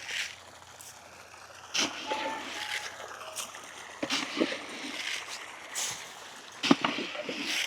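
Water splashing in about five irregular bursts over a faint steady hiss.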